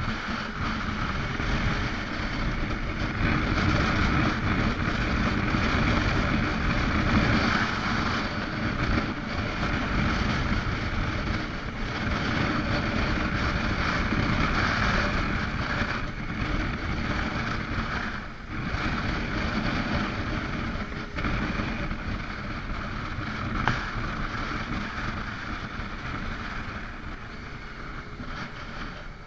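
Motorcycle engine running under way with wind rushing over the microphone. It swells and eases with the ride and grows quieter near the end.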